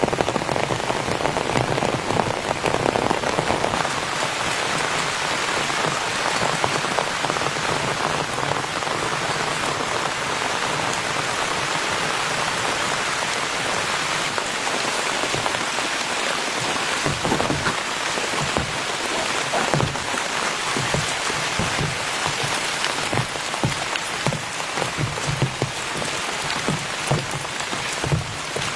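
Heavy rain falling steadily, with large single drops landing close by, more distinct in the second half.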